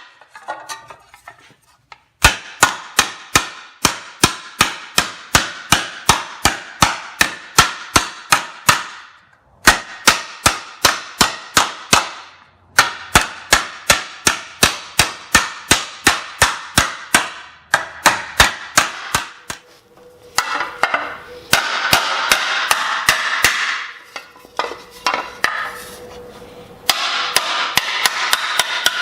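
Mallet blows on sheet metal laid over a dished Delrin shrinking stump: even strikes about three to four a second in runs broken by short pauses, coming faster and running together in the last third. The hammering shrinks the metal's edge so it rolls over.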